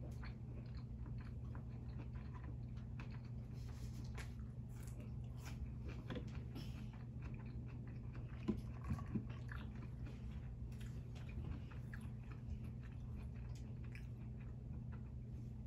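Close-miked chewing of a mouthful of shrimp cheeseburger: irregular soft wet crackles and mouth clicks, with a few louder smacks about halfway through, over a steady low hum.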